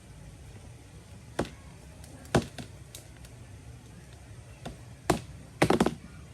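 Scattered sharp taps and knocks of tableware being handled: single knocks about a second and a half and two and a half seconds in, another near five seconds, and a quick cluster of them near the end.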